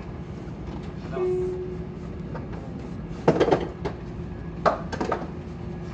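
Tobu 70000-series electric train standing at a platform, its equipment giving a steady low hum, with a short tone about a second in and two clusters of sharp knocks in the second half.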